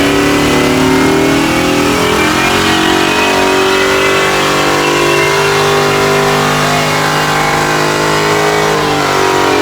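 Car engine held at high revs, a loud steady drone with a hiss over it, easing off at the very end.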